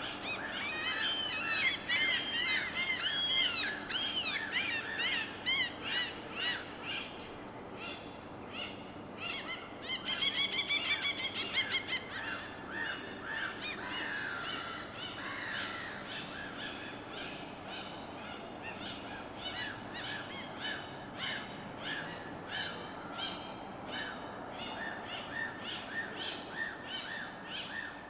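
Several birds calling and chirping, with many short calls overlapping, over a steady low wash of water. The calls are thickest in the first few seconds, and a fast run of repeated calls comes about ten seconds in.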